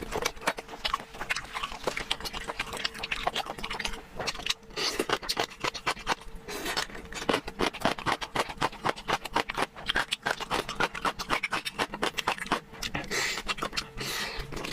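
Close-miked eating sounds: a rapid, irregular run of wet chewing clicks and lip smacks.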